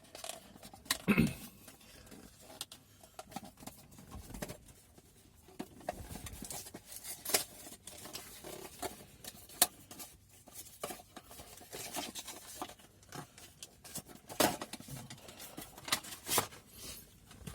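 Hands opening the packaging of a diecast model car: irregular rustles, scratches and light clicks of cardboard and plastic being handled.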